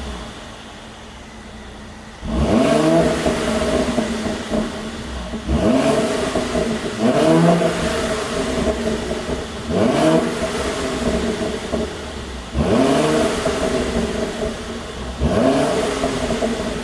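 Mercedes-Benz W205 C450 AMG 4MATIC's twin-turbo V6 idling, then revved in about six quick throttle blips, each rising in pitch and falling back to idle. The exhaust is tuned to pop and crackle as the throttle closes.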